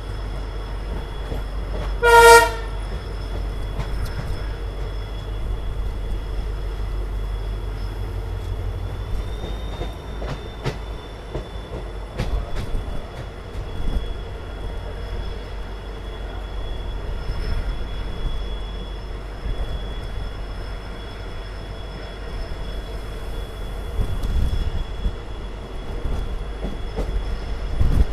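Passenger train running, heard from on board behind a WDP4 diesel locomotive: a steady low rumble with scattered rail knocks. About two seconds in, the locomotive's horn gives one short blast.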